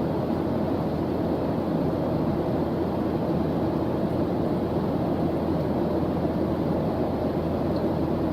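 Steady white-noise background track: an even, deep hiss weighted to the low end, with no changes.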